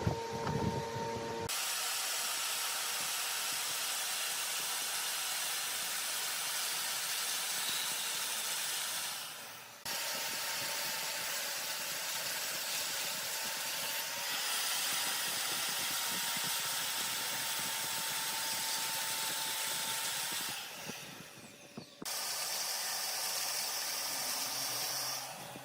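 Woodworking lathe turning mahogany: a steady hissing rasp of the cutting tool on the spinning wood, with a faint steady whine under it. The sound stops abruptly and restarts a few times, about 10 and 22 seconds in.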